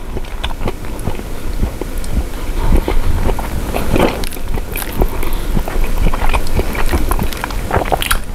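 A person chewing a mouthful of grilled cheese sandwich close to the microphone: irregular wet clicks and soft crunches of bread and filling, with no words.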